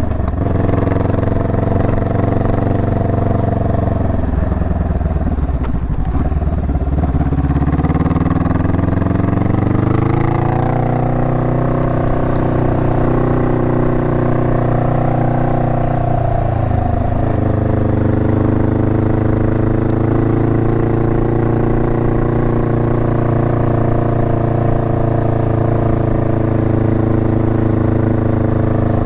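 Honda Rebel 500's parallel-twin engine under way: its pitch falls for a few seconds about four seconds in, climbs again, drops with gear changes around ten and seventeen seconds, then holds a steady cruise.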